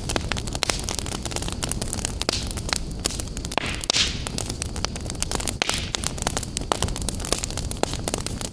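Wood fire burning in a fireplace: frequent sharp crackles and pops over a steady low rumble of flames, with a brief hiss about four seconds in.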